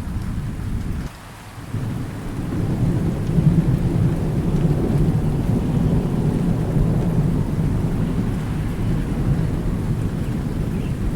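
Rolling thunder over steady rain, a deep rumble with rain hiss above it. About a second in the sound drops away briefly, then the thunder builds back and swells a couple of seconds later.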